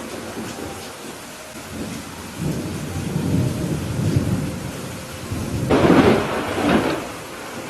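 Steady rain with thunder: a low rumble swells in the middle, then a louder peal of thunder breaks near the end.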